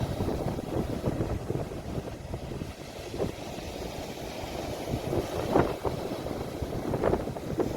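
Ocean waves and wind, recorded on a phone, with the wind rumbling on the microphone.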